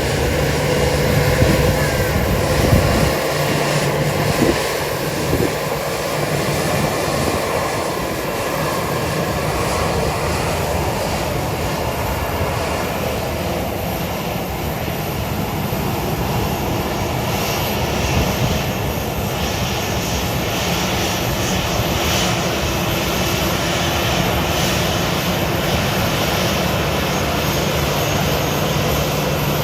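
Airliner engines running, a steady loud noise with a faint held whine.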